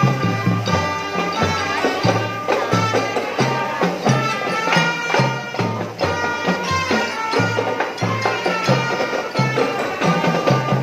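Indonesian-style drum band playing: drums keep a steady marching beat under a held, reedy melody on the band's melodic instruments.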